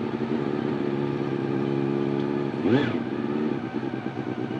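Honda CBR400RR inline-four engine idling steadily, with one quick throttle blip a little past halfway where the revs shoot up and drop straight back.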